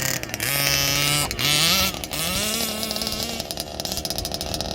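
Zenoah G320RC 31.8cc two-stroke engine with a race-ported top end, running in an RC buggy under throttle. It holds a note, then climbs in pitch twice as it accelerates and holds high. About three and a half seconds in it turns into a rougher, denser buzz.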